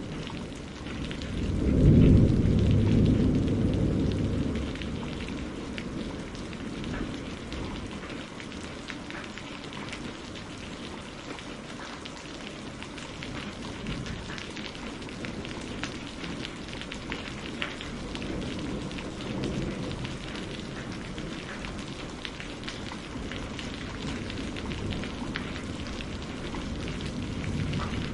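Steady rain on a greenhouse roof, with many separate drops tapping. A low roll of thunder swells about two seconds in and fades over the next few seconds, and a fainter rumble comes again past the middle.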